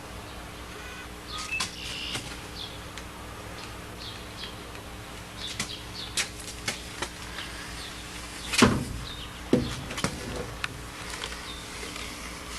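Steady low hum with scattered light clicks and a few faint high chirps, and two louder knocks, one about eight and a half seconds in and another about a second later.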